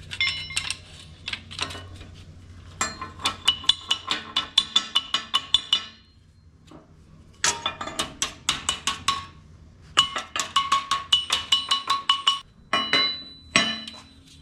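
Hammer tapping a dented metal trim strip against a steel bar to flatten it: quick runs of sharp, ringing metallic taps, about six a second, in four bursts with short pauses between.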